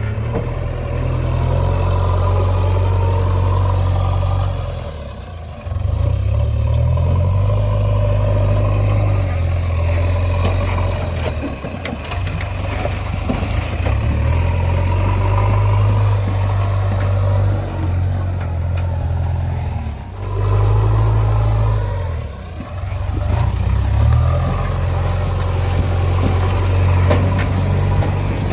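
JCB 3DX backhoe loader's diesel engine running hard as it digs and loads mud, revving up under hydraulic load and dropping back several times, with some clatter.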